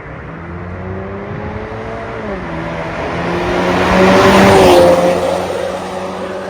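Ford Kuga EcoBoost 250 with a valved cat-back performance exhaust accelerating past, engine note rising, then dropping at a gear change about two seconds in. It is loudest as it goes by, about four to five seconds in, and then fades a little.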